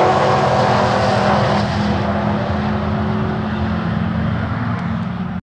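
Supercharged Holden VF Commodore SS V8 running hard down a drag strip. The engine note slowly fades as the car pulls away, then cuts off suddenly near the end.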